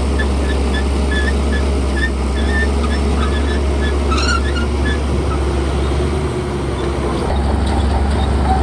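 Shantui bulldozer's diesel engine running steadily with a deep rumble, with short high chirps over it in the first half and a change in the engine note about seven seconds in.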